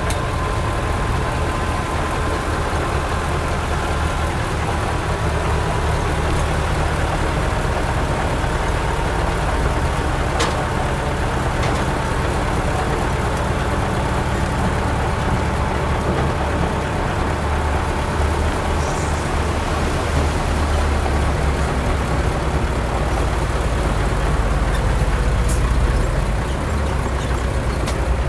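Heavy diesel engine of construction machinery running steadily: a deep rumble with a faint whine that slowly falls in pitch.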